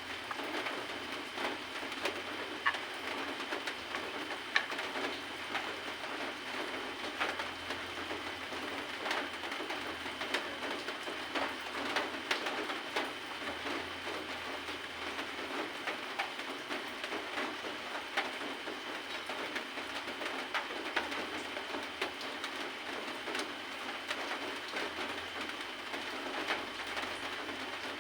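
A steady, even hiss with many scattered small clicks and ticks, and a faint steady high tone underneath.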